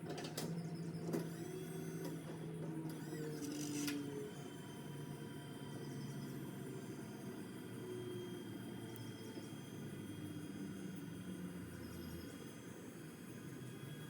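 A small electric motor running with a steady hum, with a few sharp knocks in the first four seconds.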